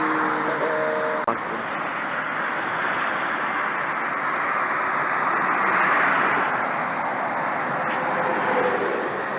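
Steady road and traffic noise with faint engine tones that rise and fall in pitch near the start and again near the end, and one short click about a second in.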